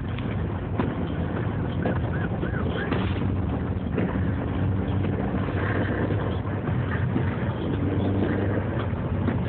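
Honda Accord's engine running steadily as the car drives through deep snow, heard from inside the cabin as a constant drone with road and tyre noise.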